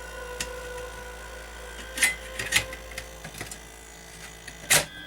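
Sony BDP-S380 Blu-ray player's disc drive spinning a disc with a steady whine of several tones and a few sharp clicks, the loudest near the end. It is a mechanical noise that the owner finds unhealthy-sounding.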